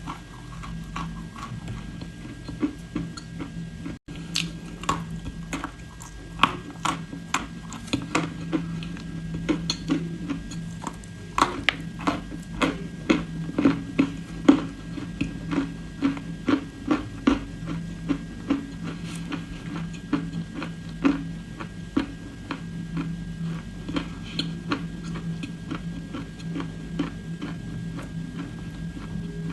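Dry edible clay being bitten and chewed close to the microphone: a steady run of crisp crunches and clicks over a low steady hum.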